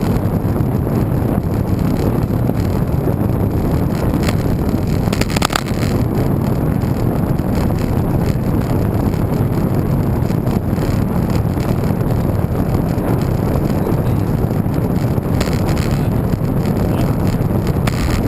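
Steady wind noise buffeting the microphone from the bike's speed, with a few brief clicks between about four and six seconds in.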